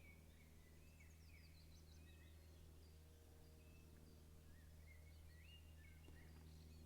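Near silence with faint birdsong: scattered short chirps and whistled notes from small birds, over a steady low hum.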